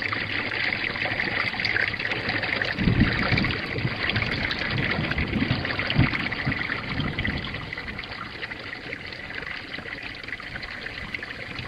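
Steady rain falling, with a few low thumps about three and six seconds in; the rain eases slightly in the last few seconds.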